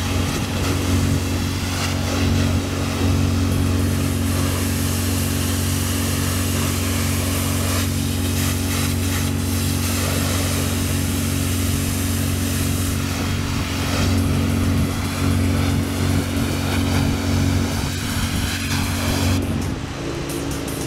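Petrol engine of a pressure washer running at steady speed under a continuous spraying hiss of water. The engine note shifts and part of the sound drops away near the end.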